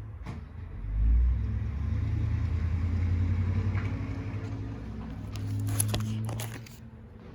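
Low rumble of a motor vehicle that swells about a second in, holds, and dies away near the end, with a few sharp crackles just before it fades.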